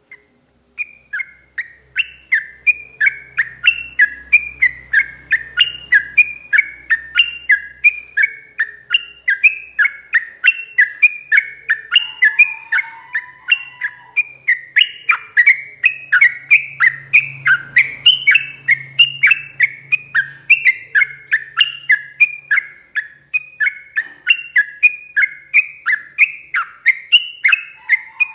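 Yellow-vented bulbul (trucuk) singing a long, unbroken 'ropel' run: short, downward-slurred whistled notes repeated about three a second, starting about a second in.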